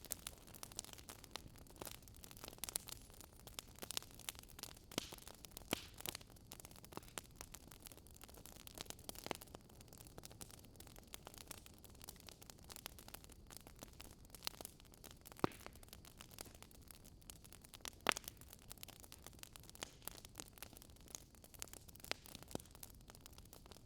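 Wood fire crackling: faint hiss with many irregular sharp pops and snaps, a few louder ones.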